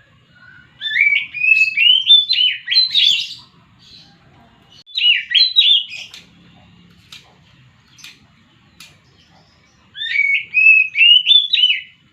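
Oriental magpie-robin (kacer) singing in three bursts of quick, sweeping whistled notes, with short pauses between them.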